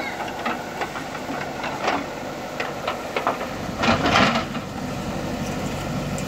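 A JCB earthmoving machine's diesel engine running, with scattered sharp knocks and clanks. The engine gets louder about three and a half seconds in, with a louder burst of clatter around four seconds.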